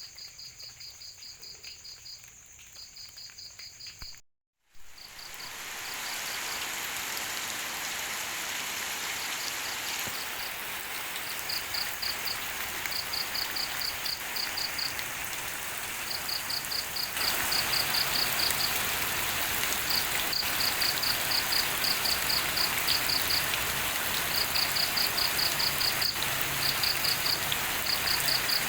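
Steady rain falling at night, with insects chirping in short rapid trains throughout. For the first few seconds only the chirping is heard, and the sound drops out briefly. The rain then comes in and grows louder about 17 seconds in.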